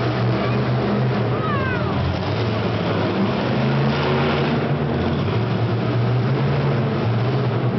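Large truck engine running steadily with a low, even drone, with a short falling whistle about a second and a half in.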